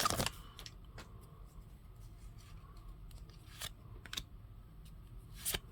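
Trading cards being handled and flipped through: a brief crinkle at the start, then a few short, soft swishes and clicks of card on card, the loudest near the end.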